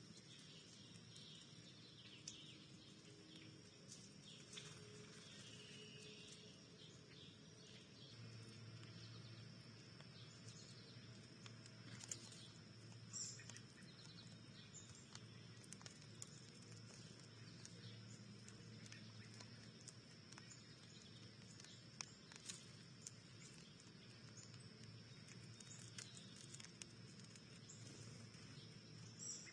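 Faint outdoor backyard ambience: a steady high-pitched hum with faint scattered bird chirps and a few small clicks.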